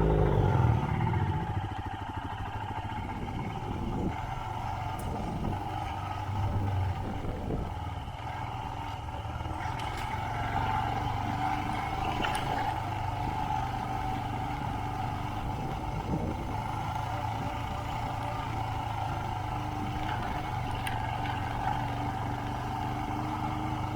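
Royal Enfield Himalayan's single-cylinder engine running at a steady, even pace while riding, with a few faint ticks.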